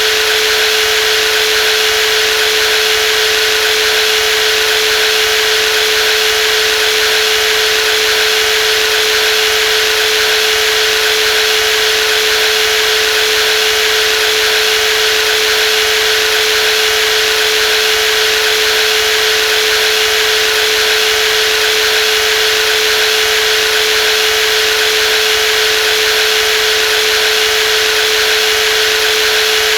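Brushless jigsaw running at a constant speed: a loud, even machine whine with one strong steady tone that never changes.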